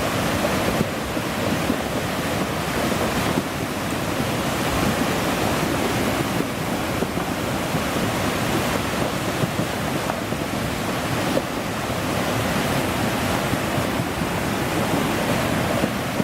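Steady rushing roar of fast-flowing floodwater, mixed with wind buffeting the microphone.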